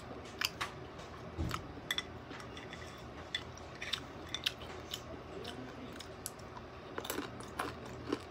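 Close-miked eating sounds: chewing with irregular sharp mouth clicks and smacks.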